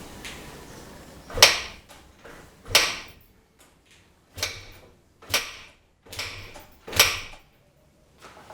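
Kickstarter on a 1978 Yamaha DT175MX two-stroke being stamped down six times, roughly a second apart, each stroke a sharp burst that dies away quickly, the freshly rebuilt engine not yet running.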